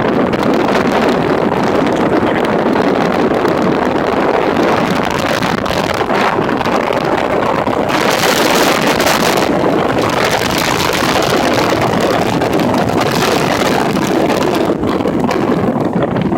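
Storm-force winter wind blowing hard and buffeting the microphone with a dense, steady roar, and a louder hiss for about a second and a half some eight seconds in.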